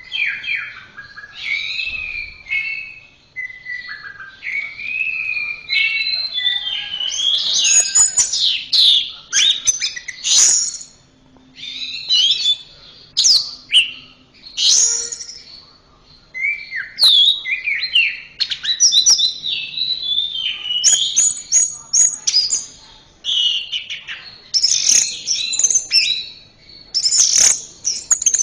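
Orange-headed thrush singing a long, varied song of gliding whistled phrases and quick runs of notes. It starts softer, then grows louder and denser about six seconds in.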